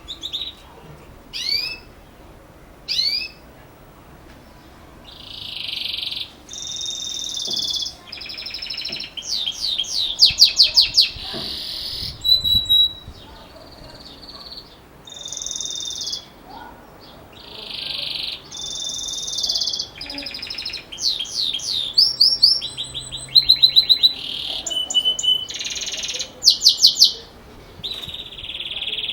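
Belgian canary singing in the 'campainha metálico' (metallic bell) style. It opens with a few short rising notes, then moves into phrases of held notes, buzzy rolls and fast trills, with short pauses between them.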